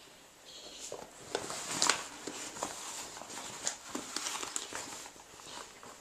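Birds moving and fluttering about inside a bare room: irregular soft clicks, taps and rustles, loudest a little under two seconds in, with a brief high-pitched sound about half a second in.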